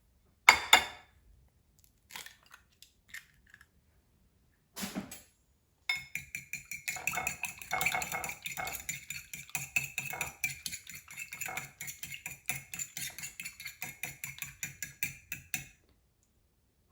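An egg being whisked in a bowl: the utensil clicks against the bowl in a fast, steady rhythm of about five strokes a second for nearly ten seconds, with a light ringing. Before that come a sharp knock about half a second in and another near five seconds.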